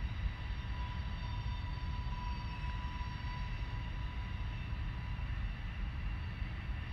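Train running at a distance: an uneven low rumble with a steady high tone held through it.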